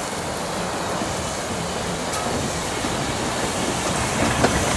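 A train running on the rails: a steady noisy rumble with a couple of sharp clicks near the end.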